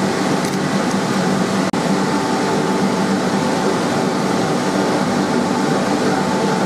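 Electric drill running steadily at a constant pitch, boring a pilot hole into a pine block with a 13 mm auger bit.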